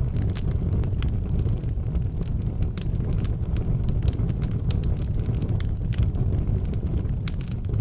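Wood fire burning in an outdoor fireplace: a steady low rumble of flame under frequent sharp crackles and pops from the burning logs.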